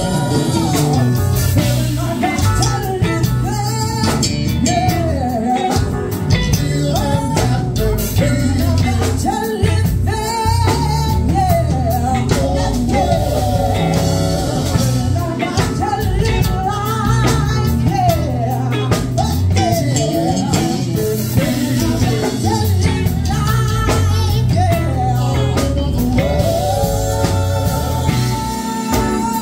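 Live singing over band music, with guitar and a steady bass line underneath.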